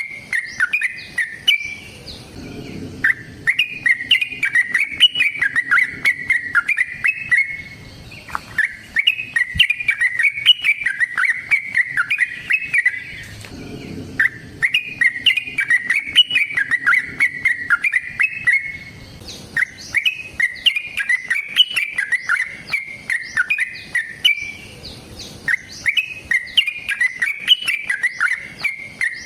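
Yellow-vented bulbul (trucukan) singing its long, rapid rolling 'ropel' song of the fighting kind. Bubbly chattering phrases come in about five bouts, each four to five seconds long, with short pauses between them.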